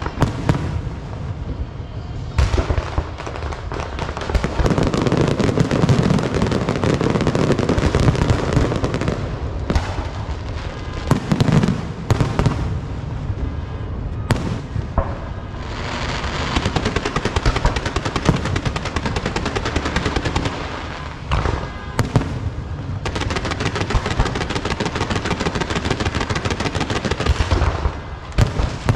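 Firecrackers and fireworks going off in a long barrage: a dense, continuous crackle of rapid bangs with louder booms scattered through, easing briefly a few times.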